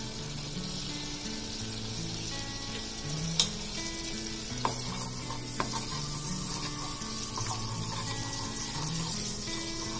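Finely chopped garlic sizzling in melted butter in a metal pan. A wooden spatula knocks against the pan a few times from about three seconds in and stirs. Soft background music plays under it.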